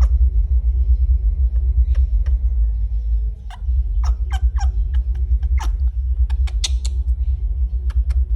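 A loud, steady low rumble, with a string of short, sharp clicks and squeaks over it and one brighter squeak about two-thirds of the way through.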